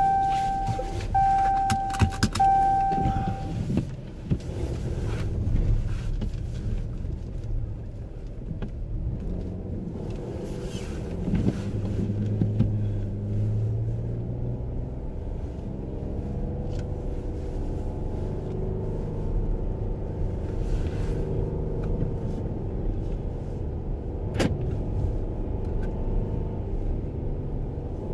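Inside a car: a warning chime beeps several times, then stops about three seconds in, leaving the steady low rumble of the engine and cabin as the car drives. A single sharp click comes near the end.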